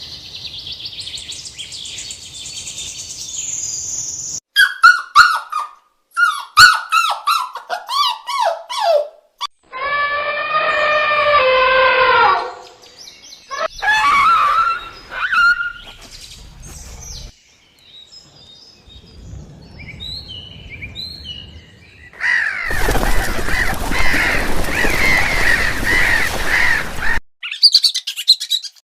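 A series of short animal-call clips cut one after another, mostly bird chirps and calls. They include high twittering, a run of repeated falling calls, one drawn-out pitched call, and near the end about five seconds of dense, noisy calling from a flock.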